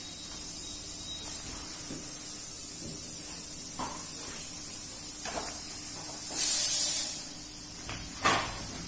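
Steady background hiss with a faint low hum, a few faint knocks, and a louder brief rush of hiss about six and a half seconds in.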